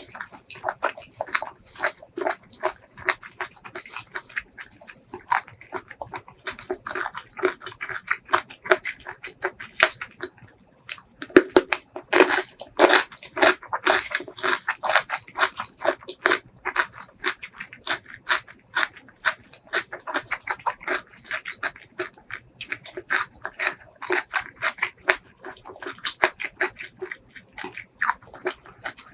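Close-miked eating sounds: rapid wet chewing and mouth smacks of spicy braised seafood, with a louder, busier stretch of chewing around the middle.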